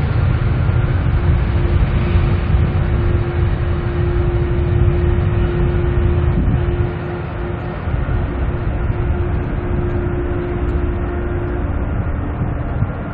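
Jet airliner engines, a loud low rumble with a steady hum running through it. The rumble eases a little in the second half, and the hum fades out near the end.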